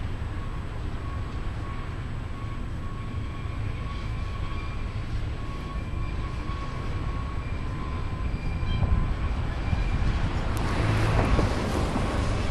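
Freight train rumbling past, with faint steady high tones over the rumble. It grows louder and rougher about ten seconds in.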